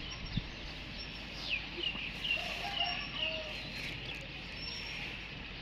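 Birds chirping: many short, high, sliding calls, with a few lower calls near the middle, over low outdoor background noise.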